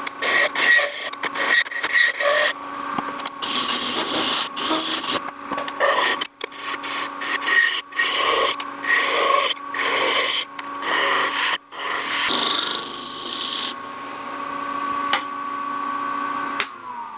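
Wood lathe running with a steady hum while a turning tool cuts the spinning wood in repeated scraping passes, narrowing the neck of a small vase. Near the end the lathe is switched off and its hum falls in pitch as it spins down.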